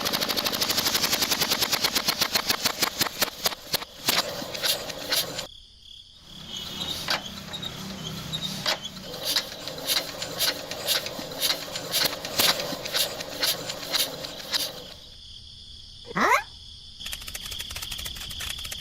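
A fast rattle of sharp clicks that slows to regular clicks about two a second, broken by two brief gaps, with a short rising whistle-like glide near the end.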